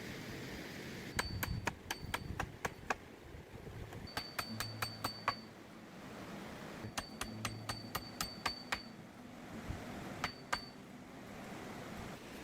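Hammer striking metal, likely driving a chisel or nail: quick runs of sharp taps, each with a short high metallic ring. There are three bursts of about eight strikes each, then two more near the end, over a steady background hiss.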